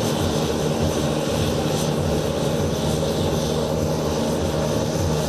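Propeller-driven light aircraft's piston engine running steadily in flight, a constant droning hum with no clear rise or fall in pitch.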